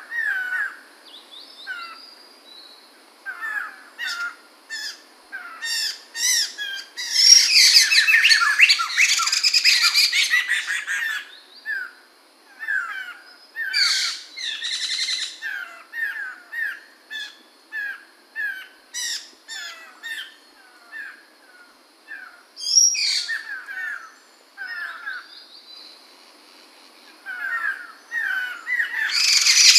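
Poksay mantel, a laughingthrush, singing: runs of short repeated chirps broken by a few loud, dense bursts of song.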